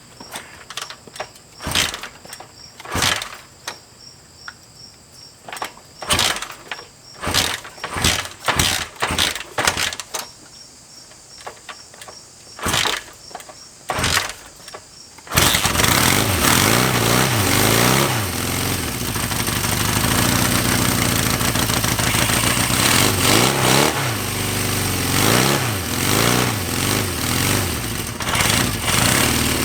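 1975 Honda CB550's inline-four engine being cranked in a string of short attempts, then catching about halfway through and running steadily, revved up and back down a few times.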